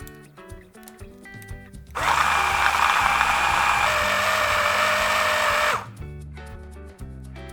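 Kitchen blender motor running at full speed for about four seconds, starting and stopping abruptly, with background music.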